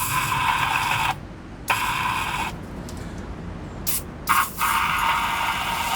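Aerosol can of penetrating oil sprayed in hissing bursts, about four of them, the last the longest, down the injector holes of a seized diesel engine to free it.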